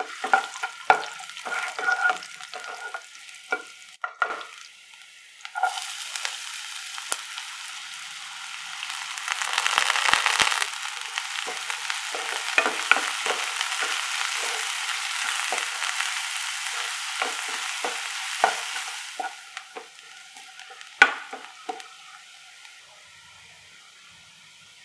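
Garlic and ginger, then chopped onions and curry leaves, sizzling in hot oil in a nonstick pan, with a spatula scraping and tapping as they are stirred. The sizzle turns louder and steady about six seconds in and eases off near the end, with one sharp spatula tap shortly before.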